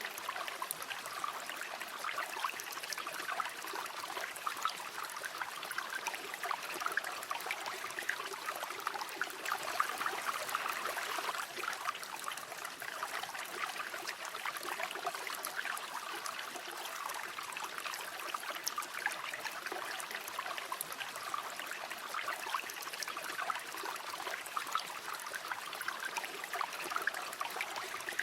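River water flowing and babbling steadily over stones, a continuous splashing, gurgling rush without breaks.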